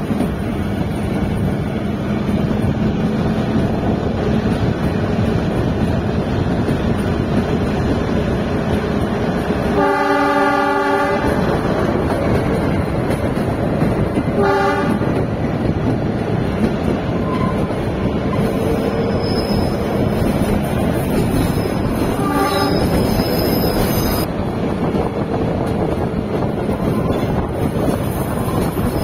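A Kalka–Shimla narrow-gauge toy train running, heard from on board as a steady rolling rumble. Its horn sounds for about a second and a half around ten seconds in, with two short toots later. Faint high squeals come in the latter half.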